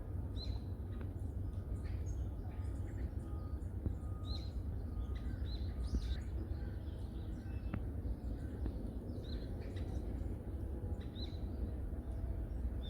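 Wild birds calling: short, sharp chirps scattered every second or so, over a steady low rumble.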